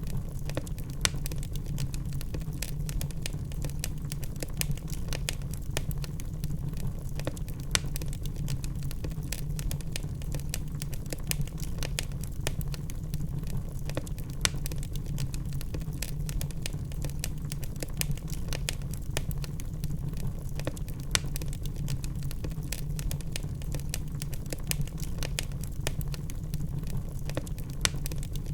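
Log fire burning in a fireplace: wood crackling with frequent irregular sharp snaps over a steady low rumble.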